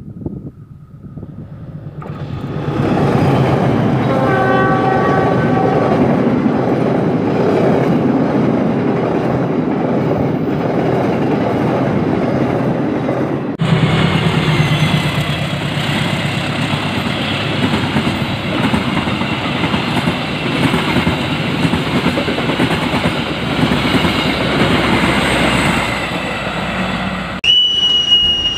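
Diesel-electric locomotive-hauled passenger trains passing at speed on the main line, with a steady rumble of locomotive and wheels. The locomotive horn sounds for about two seconds around four seconds in. The sound cuts abruptly to a second passing train about halfway through, and near the end cuts again to a steady high-pitched tone.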